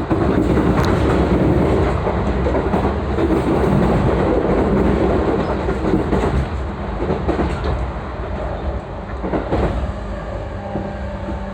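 Running noise of a JR East E233-3000 series electric train heard inside the car: a loud rumble of wheels on rail with clickety-clack from the rail joints. The noise eases after about eight seconds, and a steady motor tone comes in near the end.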